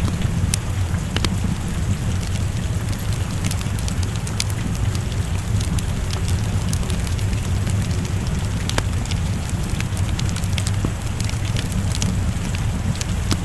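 Wood fire crackling, with scattered sharp pops, over steady rain and a deep rumble.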